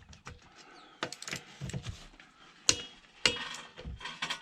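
Metal parts and tools clinking and knocking in a string of separate sharp strikes while a car wheel is being refitted, some with a short metallic ring; the loudest comes near the middle.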